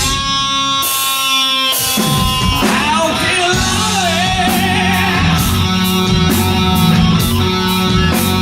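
A live hard rock band playing. A sustained note rings for the first two seconds, then a wavering lead melody comes in. From about four seconds in, drums and a steady cymbal beat join.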